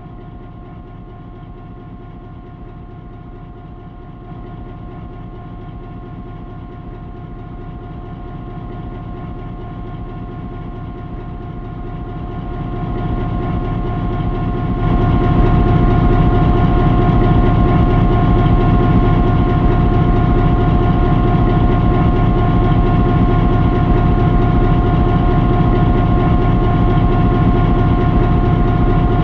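Old railway locomotive running at idle, a steady low pulsing with a constant whine over it, growing louder over the first fifteen seconds and then holding steady.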